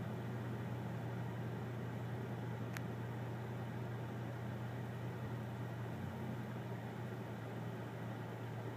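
Dodge Charger's 3.6-litre Pentastar V6 running steadily at idle, a low even hum of engine and exhaust heard from inside the cabin. A single faint click about three seconds in.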